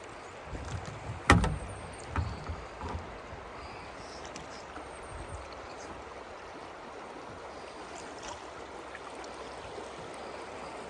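River water running steadily around a drifting kayak. In the first three seconds a few knocks and thumps sound on the boat, the loudest about a second in.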